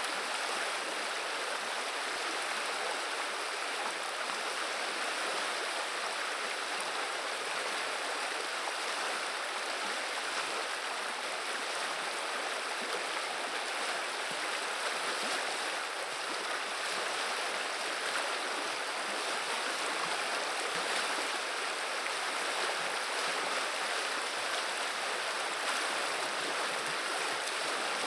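Flowing river water: the Viliya's current running in a steady, even babble with no separate splashes or other events.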